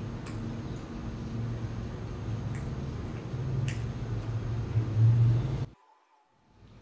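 Soft chewing and mouth sounds, with a few faint clicks over a steady low hum, growing a little louder before cutting off suddenly about six seconds in.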